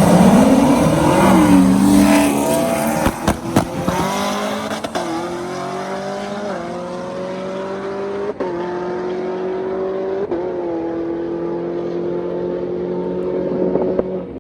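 Supercharged 6.2-litre V8 of a Chevrolet Camaro ZL1 at full throttle in a roll race, pulling hard and upshifting about four times, its pitch dipping briefly at each shift.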